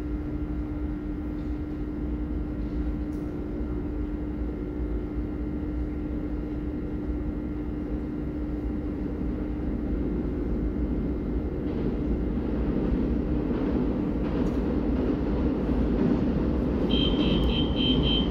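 Taiwan Railway electric multiple-unit train approaching through the tunnel of an underground station: a low rumble that grows steadily louder over a steady hum. A rapid high-pitched beeping starts near the end.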